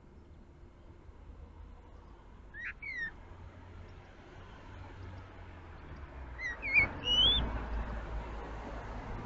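Common blackbird giving short whistled calls, twice: a pair of quick gliding notes about three seconds in, then a few chirps ending in a rising note near seven seconds. A sharp knock lands among the second calls, followed by a low rumble.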